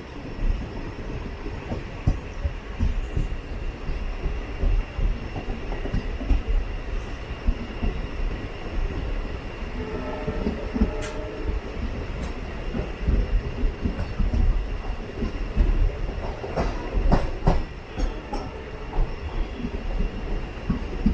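Passenger train running slowly over the track: a steady rumble from the wheels with irregular clacks over rail joints. There is a brief squeal of wheel on rail about halfway, and a run of sharper knocks near the end.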